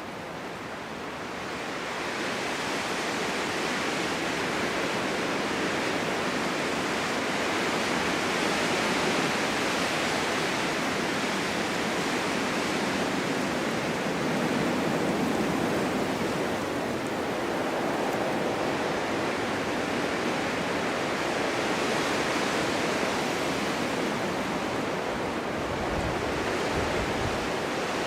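Snowstorm wind blowing in a steady rush that builds over the first couple of seconds, then swells and eases in gusts.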